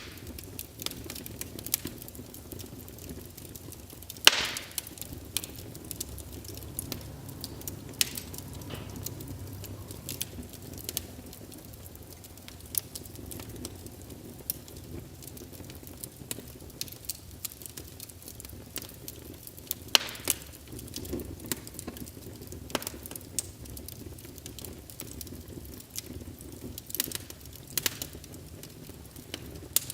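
Small wood fire in a fireplace crackling, with irregular sharp pops over a low steady hiss of burning; louder pops about four seconds in and again around twenty seconds in.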